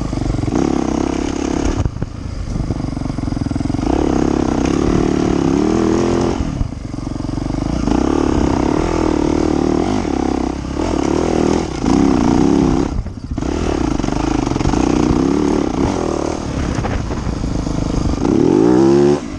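Yamaha YZ450F four-stroke single-cylinder dirt bike engine under hard riding, revving up and down with brief drops when the throttle is shut, and a final climbing rev near the end.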